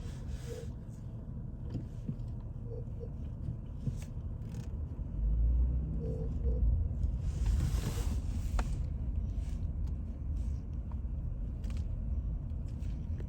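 Low, steady rumble of a car heard from inside the cabin, swelling a little about five seconds in, with a brief rush of noise about seven seconds in.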